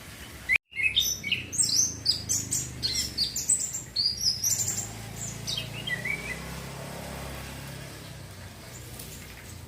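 Young male orange-headed thrush singing a fast, tumbling run of high chirps and whistled notes, thinning out to a few scattered notes about six seconds in, over a steady low hum.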